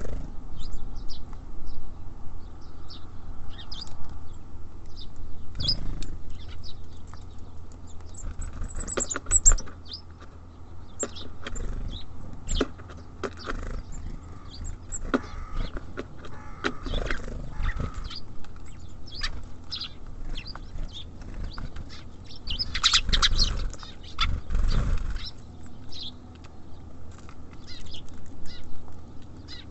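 Small songbirds, tits and sparrows, busy at a feeder: a scatter of sharp taps and knocks from pecking and landing, short high chirps, and brief wing flutters. The activity comes in two busier flurries, about 9 and 23 seconds in.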